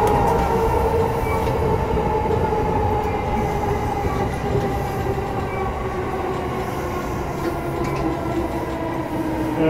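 Electric commuter train heard from inside the passenger car: the traction motors' whine slowly falls in pitch as the train slows, over the steady running noise of wheels on rail.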